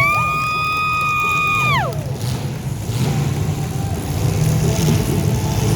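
A horn sounds one steady high note for nearly two seconds and drops in pitch as it cuts off, over the continuous low rumble of compact derby cars' engines.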